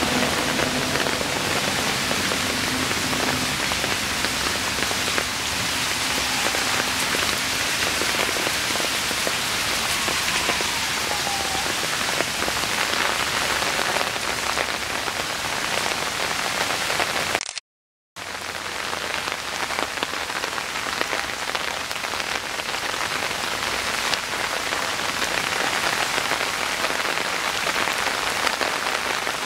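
Steady rain from a rainstorm falling on soaked ground and standing water. The sound cuts out for about half a second about two-thirds of the way through.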